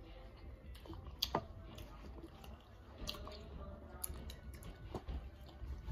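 Children chewing snacks with their mouths close to the microphone: soft wet chewing with scattered small clicks and taps.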